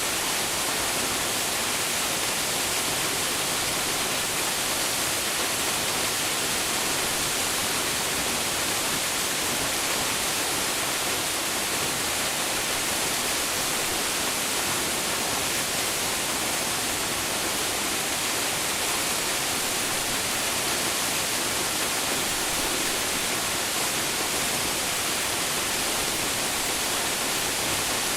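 Steady rushing hiss of a waterfall, falling water pouring without pause or change.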